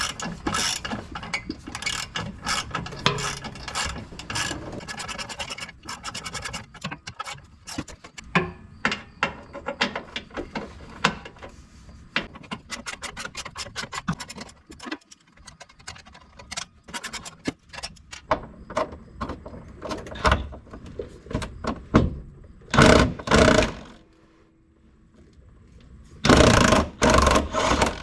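Ratchet wrench with a 13 mm socket clicking as bolts are backed out of the exhaust hangers under the car. The clicks come in quick runs, with a few louder, longer bursts near the end.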